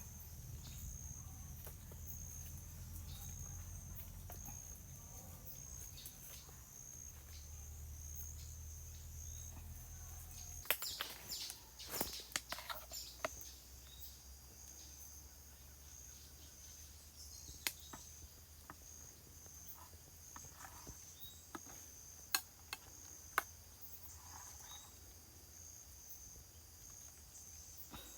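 Insects chirping in a high, steady, pulsing trill, with a low rumble that stops about a third of the way in. A quick run of sharp clicks and knocks follows, and a few single sharp clicks come later.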